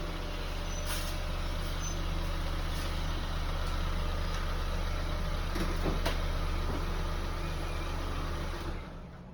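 Car engine running steadily, then shut off near the end.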